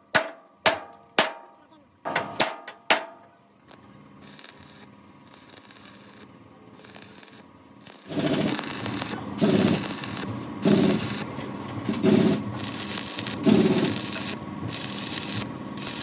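Hammer blows on steel, each ringing briefly, about six in the first three seconds. From about eight seconds in comes a rhythmic abrasive scraping on metal, with strokes a little over a second apart.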